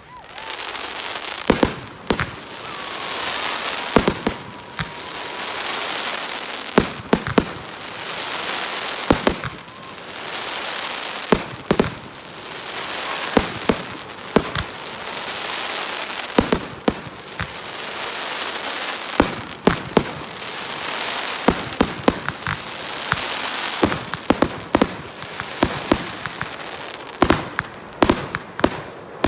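Consumer fireworks going off in quick succession: sharp bangs over waves of crackling hiss that swell and fade about every two seconds.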